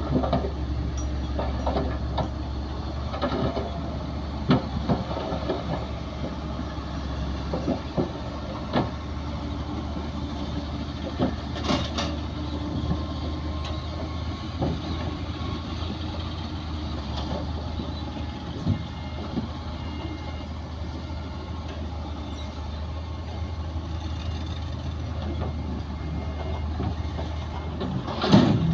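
Crawler bulldozer's diesel engine running steadily under load, with intermittent metallic clanks and knocks, the loudest near the end.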